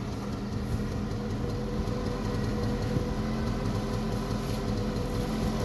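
Vehicle engine running steadily with an even hum.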